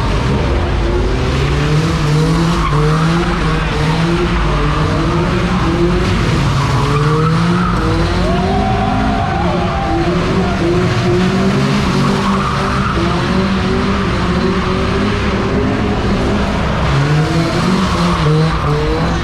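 A car engine revved hard in quick, repeated rises of pitch, with tyres squealing and skidding, as in a burnout or drift.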